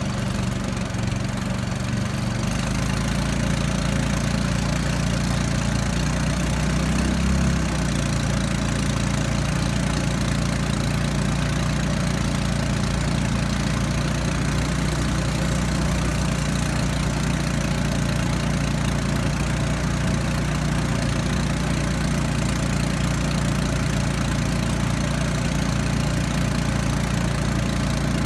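Small engine of a motorized river raft running steadily, its note shifting about two seconds in and then holding.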